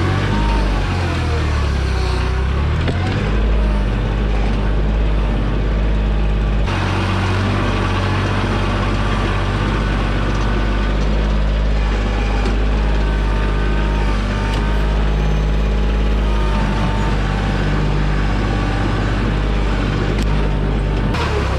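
Kioti tractor's diesel engine running steadily under load while its backhoe digs, its note changing abruptly about seven seconds in and again near the end.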